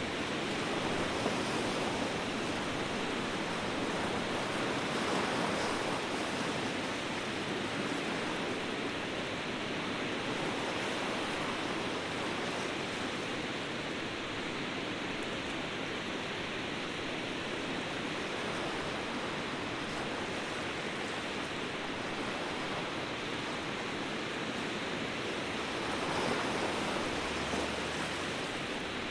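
Ocean surf washing steadily, with gentle swells a second or so in, around five seconds in, and again near the end.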